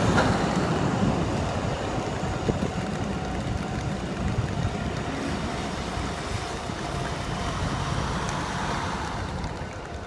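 Kintetsu 7000-series electric train running along the rails away from the listener: a rumble of wheels and running gear, loudest at first and fading steadily. Steady road traffic and wind noise sit underneath.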